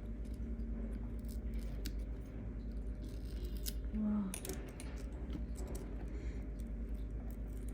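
Scattered light clicks and taps of small tools handling the opened internals of a GoPro 10, over a steady low hum.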